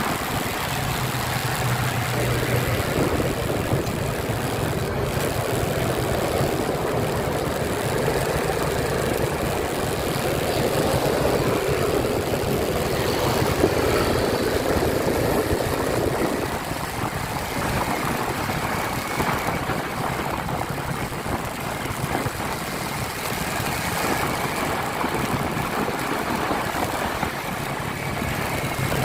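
Motorcycle engine running steadily under an even rushing noise, which is louder for the first half and eases off past the middle.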